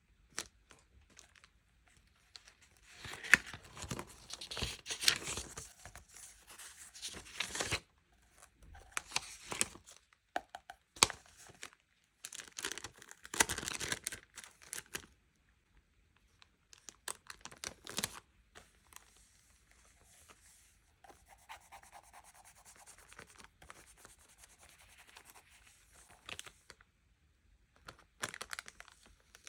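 Packaging being crinkled and torn open by hand in an unboxing, in irregular bursts of rustling and tearing with a quieter, softer stretch in the second half.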